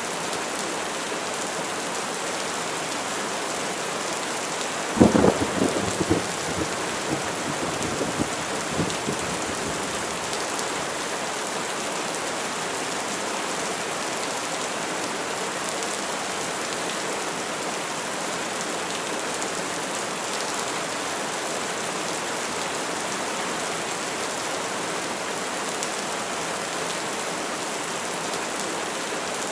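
Steady heavy rain with a sharp crack of thunder about five seconds in that rumbles away over the next few seconds.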